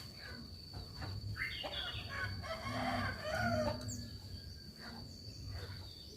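Birds calling, with a drawn-out, crow-like call through the middle seconds, over a steady high-pitched tone.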